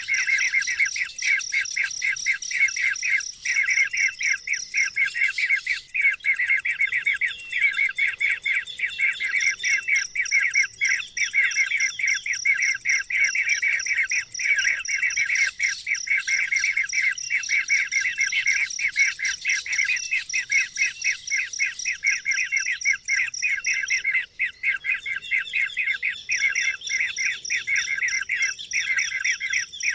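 Many small birds chirping continuously in a dense chorus of rapid, high chirps, with no break.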